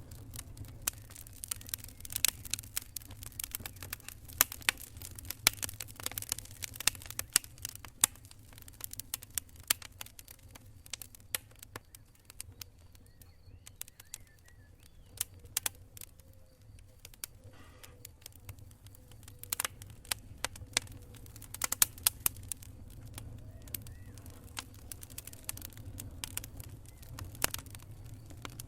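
Burning campfire wood crackling and popping in dense, irregular snaps, thinning out for a few seconds midway, over a steady low rumble.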